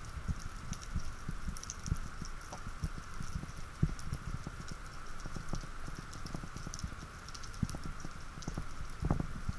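Underwater ambience heard through a diver's camera housing: irregular low thuds, scattered faint high crackling clicks and a steady hiss.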